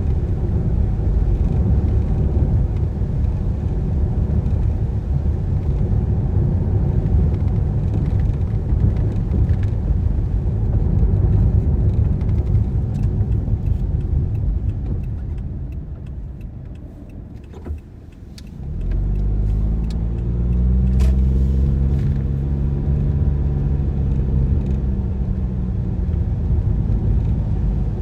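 Car driving in the rain: a steady low rumble of engine and tyres on the wet road that fades away about two thirds of the way through as the car slows. A sharp click follows, then the engine picks up again with a pitched drone that rises as the car pulls away.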